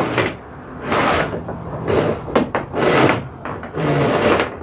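Rope being pulled through the kayak's anchor trolley pulleys: a series of rasping, rubbing pulls about a second apart.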